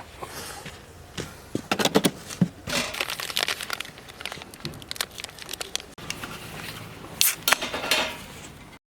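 Crinkling, rustling handling noise with a dense string of sharp clicks and crackles, cutting off abruptly near the end.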